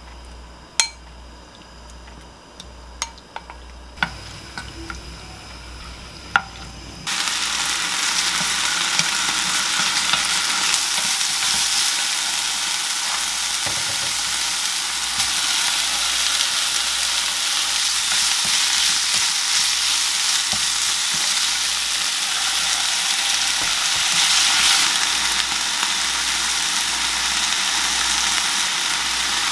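Chicken tenderloin pieces frying in oil in a nonstick pan: a few light taps at first, then about seven seconds in a loud, steady sizzle sets in suddenly and holds.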